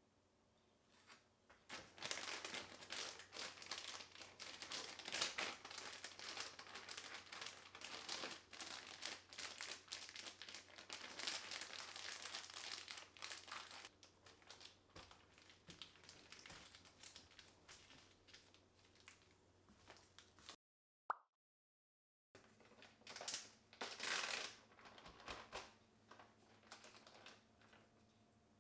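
Crinkling and rustling of something being handled, dense and continuous for about twelve seconds and then sparser. The sound drops out briefly near the end, then comes back in two short bursts.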